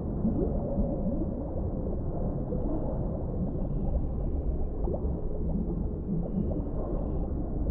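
Underwater deep-sea ambience: a steady, muffled low rumble with many short rising bubbling blips.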